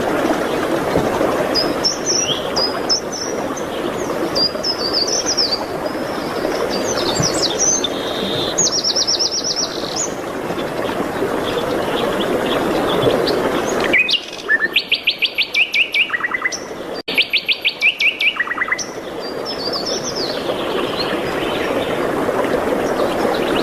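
Several songbirds chirping and warbling over a steady rushing background. About halfway through, the rushing drops away and a bird sings two loud trills of rapid, evenly repeated notes.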